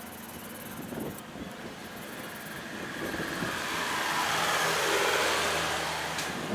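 A motor vehicle passing by: its engine and road noise swell over a few seconds and fade near the end.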